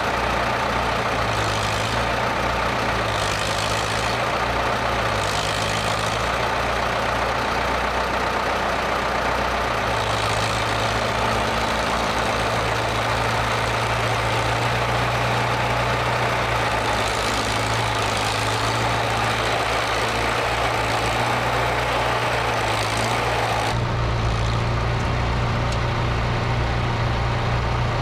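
Ford 6610 tractor's diesel engine running steadily with a low throb. The tone changes abruptly near the end.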